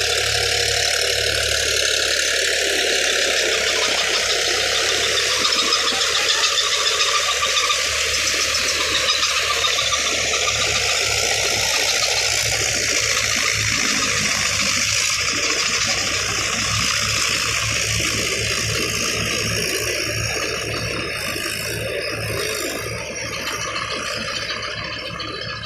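Tractor engine running steadily with a rattle, easing off a little near the end.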